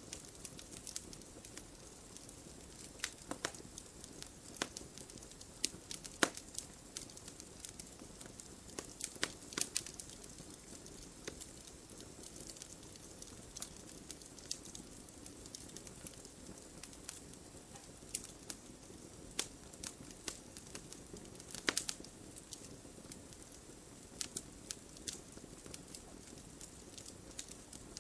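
Wood fire burning in a fireplace: a steady soft hiss with irregular crackles and pops of burning logs, the loudest pop about three quarters of the way through.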